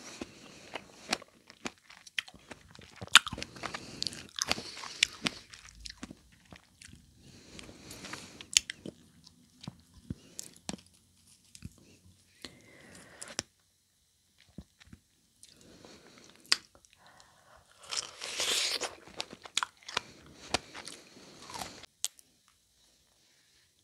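Close-miked mouth sounds of a person eating fresh strawberries: wet bites, chewing and smacking with many sharp clicks. About eighteen seconds in comes a louder breathy stretch of about two seconds, and the sounds stop shortly before the end.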